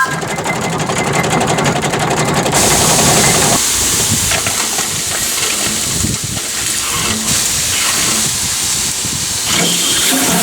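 Ruston Proctor steam tractor's engine running, with a fast even beat for the first couple of seconds, then a steady hiss of steam.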